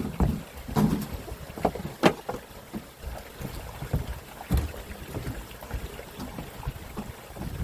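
Water slapping and sloshing against a small fishing boat's hull, with irregular knocks and splashes on deck, the sharpest about two seconds in.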